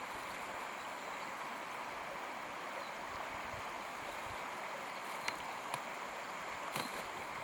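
Steady, even outdoor background hiss, with a few light, sharp clicks or taps in the last couple of seconds.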